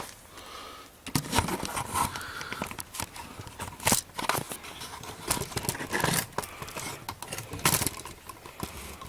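Handling noise from the recording device being set up and moved: irregular clicks, knocks and rustling scrapes.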